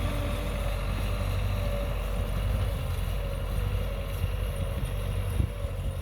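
Tractor engine running steadily as it works a field.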